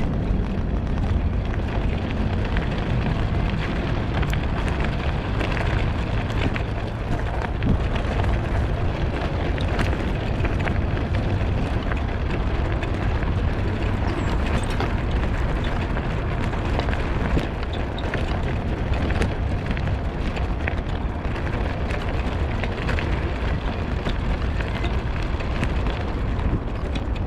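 Steady wind rumble on the microphone while riding an electric bicycle, with scattered small clicks and rattles.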